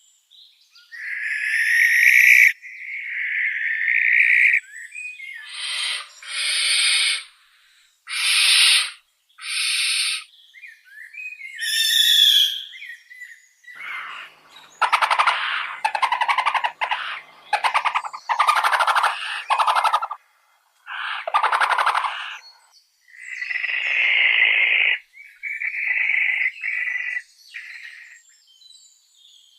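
Owl calls: a long series of harsh, raspy screeches and hissing shrieks, each lasting about half a second to two seconds, separated by short gaps.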